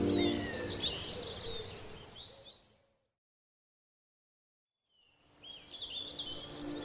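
Background music with birdsong chirps and trills fading out. The sound cuts to complete silence for about two seconds midway, then the chirping fades back in.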